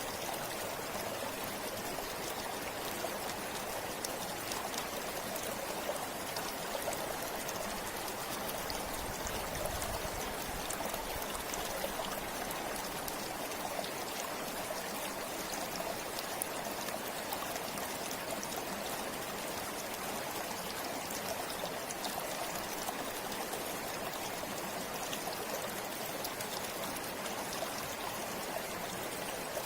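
A river running in a steady, unbroken rush of flowing water, with fine splashing and trickling over it.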